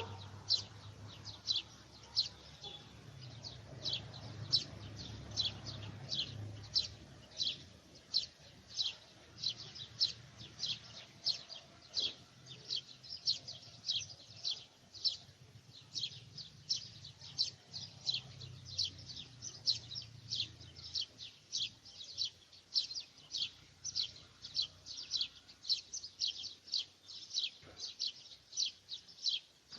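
A bird calling repeatedly: short high chirps, about three a second, kept up without a break, over a faint low background rumble.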